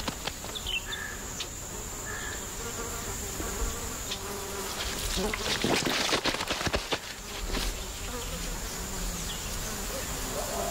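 Insects buzzing steadily, with a greater one-horned rhinoceros's dung dropping in a run of soft thuds and crackles about five to seven seconds in.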